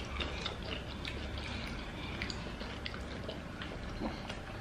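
Close-up eating sounds of people chewing king crab seafood boil with their mouths and hands, made up of many small, scattered clicks and smacks.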